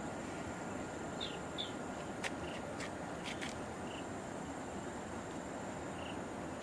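Steady rushing noise of a waterfall's falling water, with a few short high chirps and sharp ticks over it now and then.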